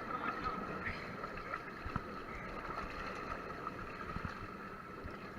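Faint, muffled water noise from a water-park ride, heard through a GoPro's waterproof case, with a few small knocks.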